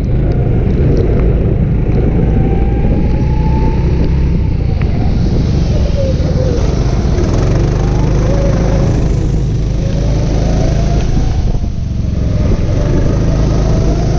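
Go-kart engine heard from onboard, its pitch rising as it accelerates and falling as the throttle is lifted, dipping twice in the second half, over a steady rushing noise.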